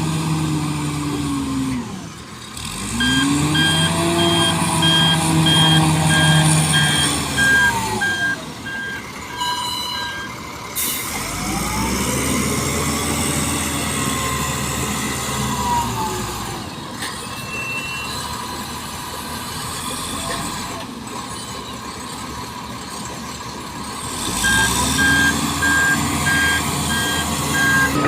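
Heavy diesel engine revving up and easing off in long swells, with a reversing alarm beeping in a steady series from about three seconds in to ten seconds, and again near the end.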